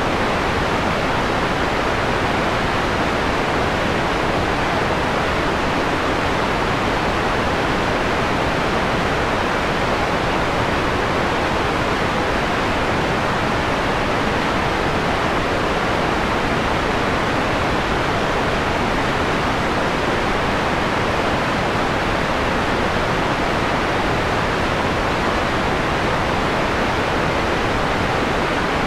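Synthetic white noise, a steady even hiss with its highest frequencies filtered down to a softer, mellower tone.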